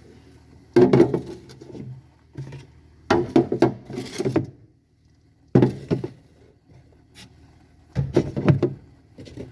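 Storage containers and food items being set down and moved about in a refrigerator: four main bursts of knocks and clatter with a few lighter clicks between them.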